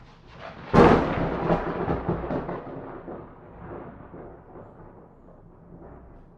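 A thunderclap: a sudden sharp crack about a second in, then a rumble that slowly fades away.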